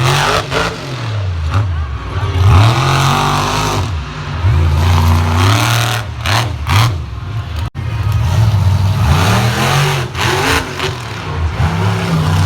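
Monster truck engine revving hard again and again, its pitch climbing and falling every second or two, with several short sharp cracks. There is a brief break just past the middle.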